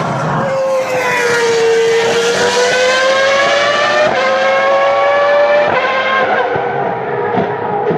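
Ferrari racing car engine at high revs on track. Its pitch dips and then climbs under acceleration, with a gear change about four seconds in. The note fades over the last two seconds.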